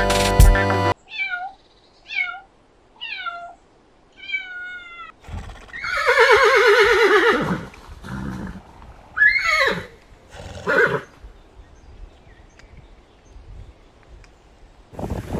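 A cat meowing four short times, each call falling in pitch, then a horse whinnying in one long quavering call, followed by two shorter calls.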